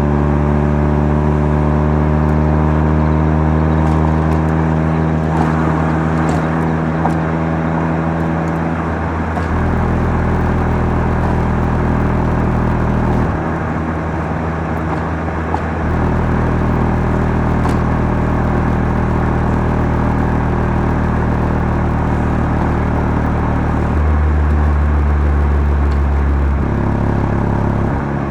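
Mazda RX-7 FC3S twin-rotor 13B turbo rotary engine running through a Knight Sports Legal Sports aftermarket muffler while driving. A steady exhaust drone sags slowly in pitch over the first several seconds, then changes pitch and level in steps a few times as the throttle or gear changes.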